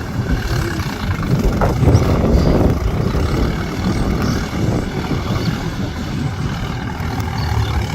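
Sonalika DI 47 four-wheel-drive tractor's diesel engine running under load while working through mud, getting louder for a moment about two seconds in.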